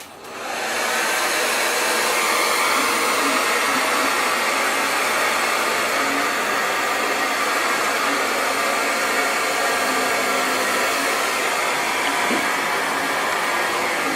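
Handheld hair dryer blowing steadily as hair is blow-dried for styling. It comes up to speed in the first second and is switched off at the end.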